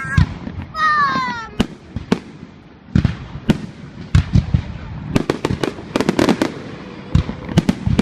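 Aerial fireworks bursting: a steady run of sharp bangs and cracks, coming thicker from about five seconds in. A short falling tone cuts through about a second in.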